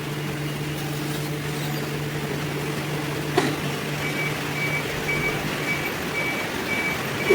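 Steady hum of factory machinery with a single click a little past three seconds. From about four seconds in, an electronic warning beeper sounds about twice a second.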